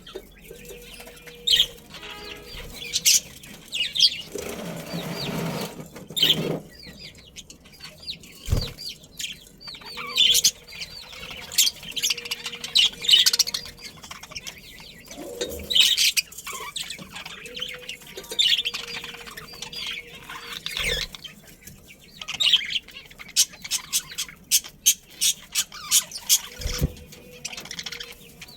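A flock of budgerigars chirping and chattering in quick, high twitters, with wings fluttering now and then.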